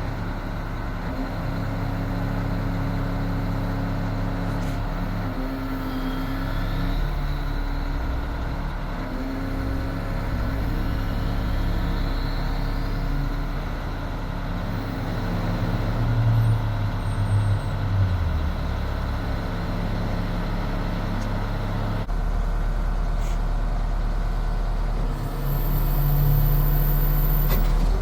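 2001 International 4800 bucket truck's engine running steadily, getting briefly louder about halfway through.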